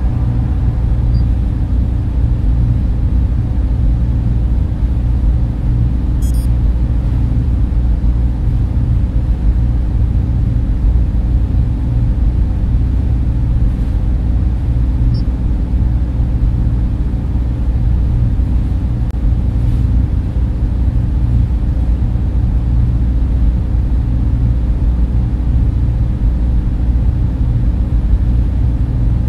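Data-center server fans and cooling equipment running with a steady low rumble and whir, heaviest in the bass, with a faint steady hum on top.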